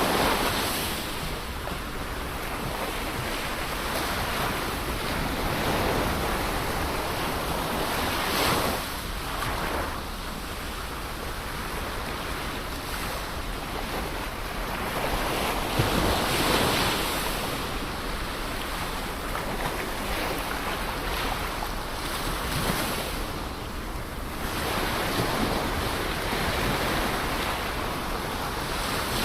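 Ocean waves breaking and washing in a steady surf, swelling every few seconds, strongest near the middle, with wind rumbling on the microphone.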